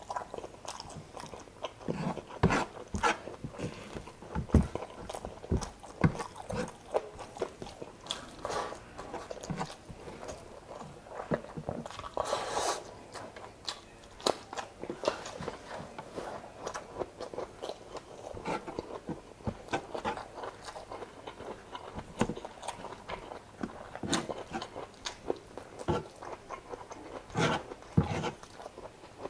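A person chewing and biting into chicken and rice eaten by hand, with many irregular sharp mouth clicks and short crunches. About twelve seconds in there is a longer hissy burst.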